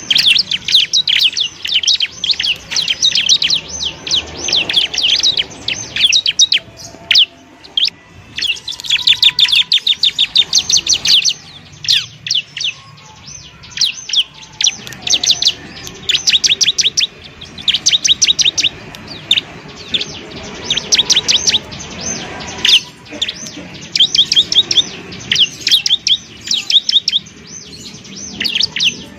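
Ciblek (bar-winged prinia) singing: rapid runs of sharp, high chirps in bursts of a second or two, broken by short pauses and kept up throughout.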